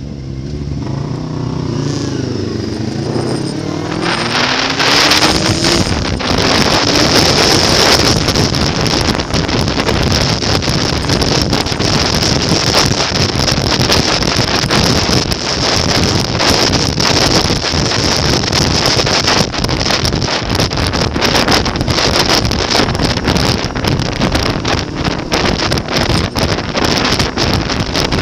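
Motorcycle engines revving and changing pitch for the first few seconds, then, from about four seconds in, a steady loud rush of wind buffeting the microphone with engine noise underneath.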